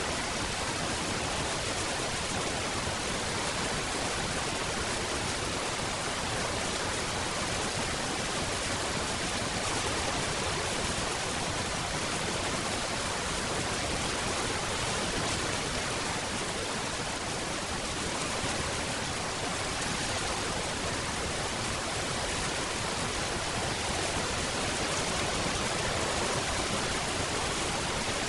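Steady heavy rain: a dense, even hiss with no single drops or thunder standing out.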